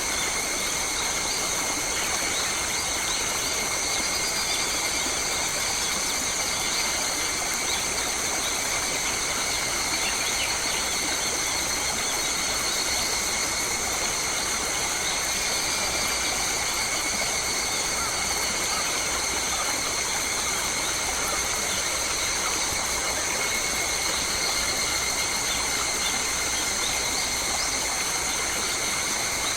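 Steady insect chorus in bush: a continuous high-pitched drone held on several steady pitches at once, with no let-up, over a soft hiss.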